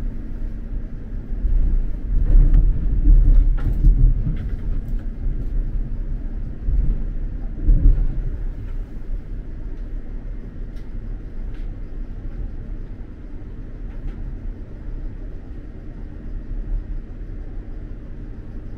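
X2000 high-speed train running on the track, heard from inside a passenger carriage: a low rumble with a few sharp clicks and knocks in the first half, then a quieter, steady rumble.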